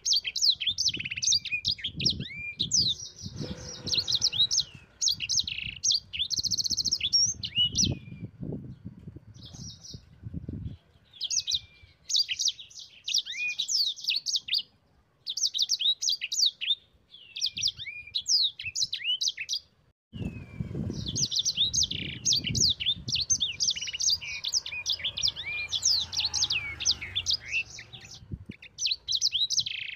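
A sanger songbird singing a fast, busy song of high chirps, trills and short rising and falling whistles. It comes in long bursts broken by brief pauses, about a third of the way in and again about two-thirds in. Faint low rumbling noise lies under parts of the song.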